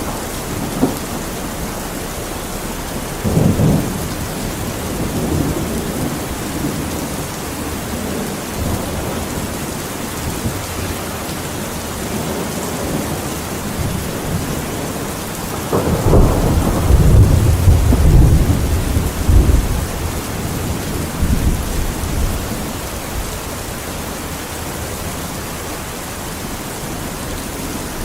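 Steady rain falling, with rolls of thunder: a short one a few seconds in and a longer, louder roll past the middle that lasts several seconds.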